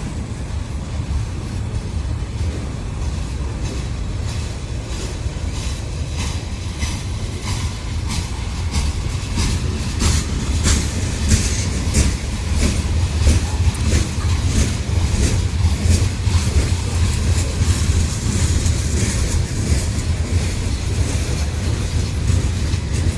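Mixed freight train rolling past, its cars' wheels rumbling and clicking over the rail joints, the clicks coming thickest partway through.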